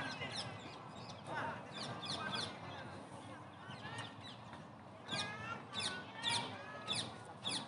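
Birds calling: a series of short, harsh squawks that fall steeply in pitch, several in quick succession from about five seconds in.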